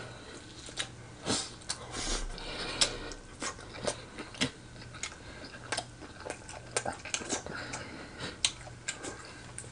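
Close-miked chewing of a mouthful of pork chop with gravy: an irregular string of short mouth clicks and lip smacks.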